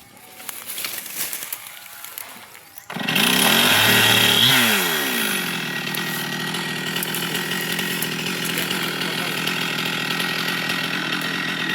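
Chainsaw starting up about three seconds in, running fast briefly, then dropping in pitch to a steady lower speed.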